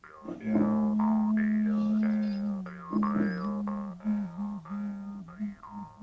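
A droning musical sound: a steady low drone with overtones sweeping up and down about once a second, its pitch dipping briefly several times in the second half.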